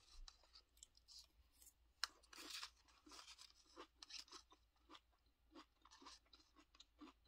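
Faint chewing of Apple Pie Toast Crunch cereal in milk: soft, irregular crunches with small clicks.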